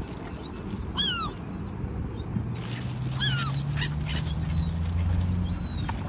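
Birds calling: loud, short, downward-curving calls about every two seconds among fainter high chirps, over a steady low engine-like hum in the middle.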